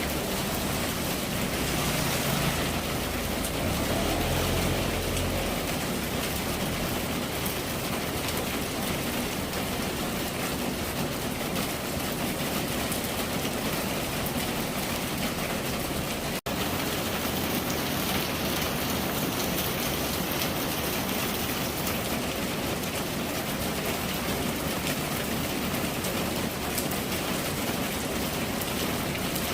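Steady heavy rain falling, an even dense hiss of drops, with a low rumble about two to five seconds in. The sound drops out for an instant about sixteen seconds in.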